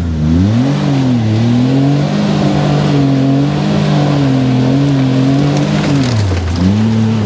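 Off-road buggy engine revving up and held at high revs while pulling through thick, clay-like mud, its pitch wavering. The revs drop briefly near the end, then climb again, over a steady hiss.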